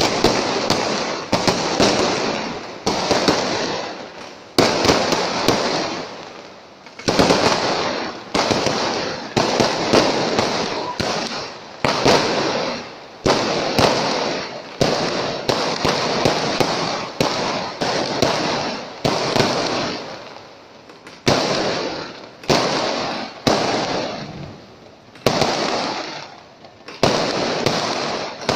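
Aerial fireworks bursting in quick succession: a sharp bang every second or two, each followed by crackling that dies away over about a second.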